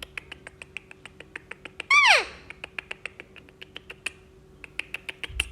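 A green parrot gives one loud, short whistle that slides downward, about two seconds in. Throughout, a quick, even series of sharp clicks, about seven a second.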